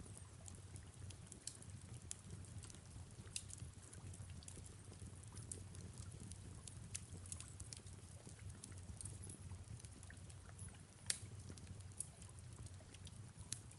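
Fireplace crackling faintly, with irregular small snaps and one louder pop about 11 seconds in, over a soft hiss of rain and a low steady hum.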